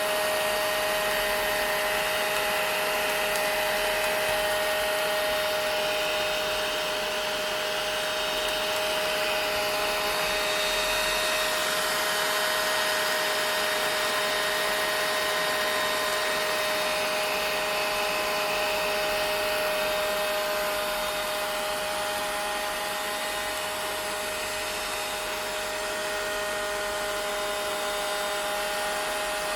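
Vacuum cleaner motor running steadily: a continuous whine with a steady hum under a wide hiss. It drops a little in level about two-thirds of the way through.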